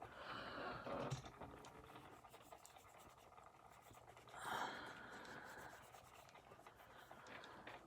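Faint scratching and rubbing from a die-cast toy car being handled, with a soft breath-like rush about four and a half seconds in.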